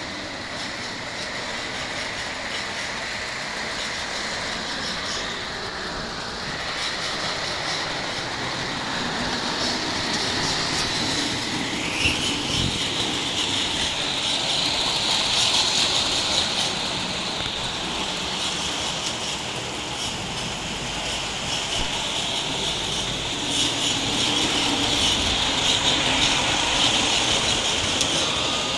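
O-gauge model train running on its track: wheels clattering and rumbling under a steady electric-motor whine. The whine steps up in pitch a little under halfway through, and the sound swells twice as the train comes closer.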